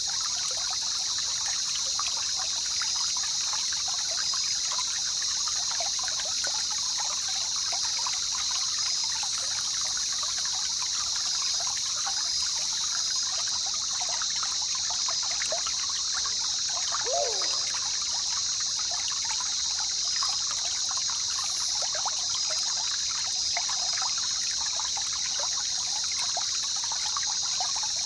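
Jungle river water trickling and babbling steadily, under a constant high-pitched drone. One brief falling call stands out about two-thirds of the way through.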